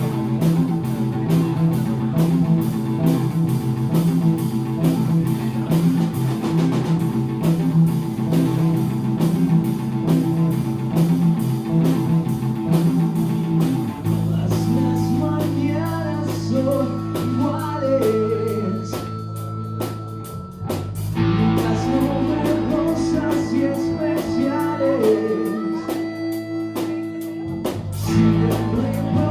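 Live blues-rock band playing with electric guitar, bass and drums in a driving, evenly pulsed groove. About halfway through it changes to long held bass notes with a wavering melody line above.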